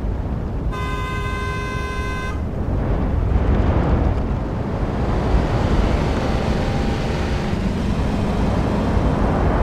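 Street traffic: a steady rumble of passing vehicles, with a car horn sounding once for about a second and a half near the start.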